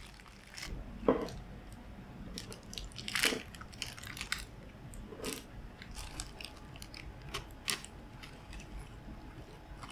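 Kitchen food-preparation sounds: scattered taps, knocks and crunchy scrapes of utensils and food being handled, with the sharpest knock about a second in.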